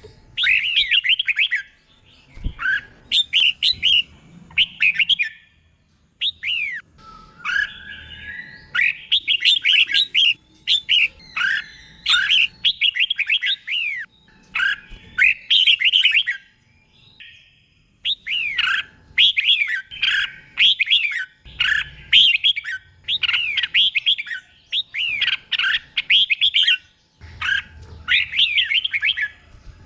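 Red-whiskered bulbul singing, a teacher-bird song of short, bright warbled phrases delivered one after another with brief pauses between runs.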